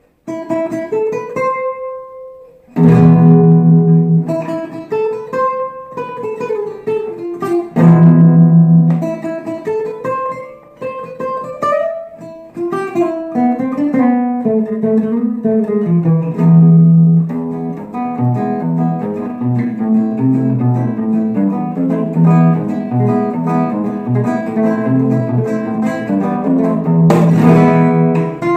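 Acoustic guitar playing a flamenco-style instrumental: single picked notes with loud strummed chords about three seconds in, about eight seconds in and near the end, then a steady run of quick strummed chords.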